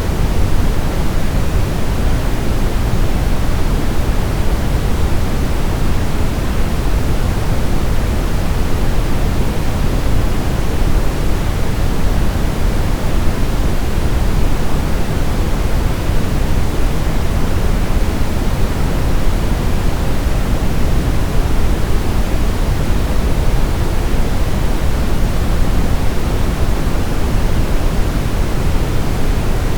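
Steady synthetic brown noise: an even, deep rushing hiss with most of its weight in the low end, unchanging throughout.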